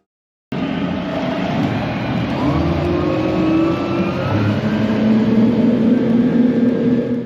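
Motor cruiser's engine running under way, rising in pitch as it speeds up, over a steady rushing noise. It starts suddenly about half a second in and cuts off abruptly at the end.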